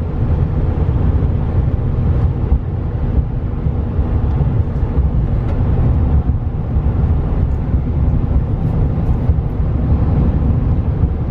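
Steady low rumble of engine and road noise inside the cab of a 2015 GMC Sierra 3500HD Denali pickup under way.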